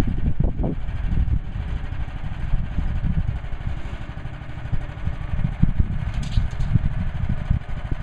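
Woodland Mills HM130 Max portable bandsaw mill's gas engine running steadily with a rough, low chugging.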